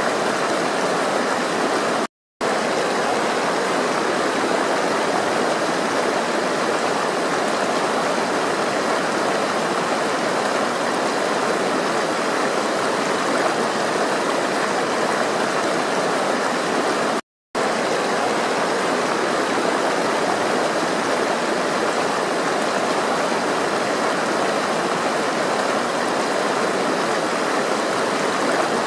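Steady rush of flowing water. Twice it cuts out to silence for a split second, about two seconds in and again past the middle.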